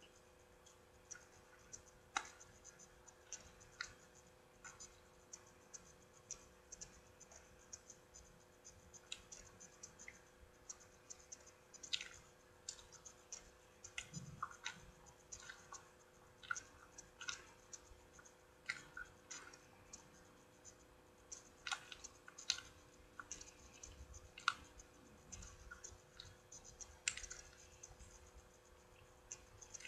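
Faint close-up eating sounds of someone chewing a frosted cinnamon roll: irregular small wet mouth clicks and lip smacks, over a steady low hum.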